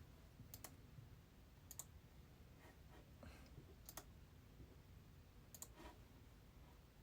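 Near silence with low room tone and four faint, sharp clicks spread a second or two apart.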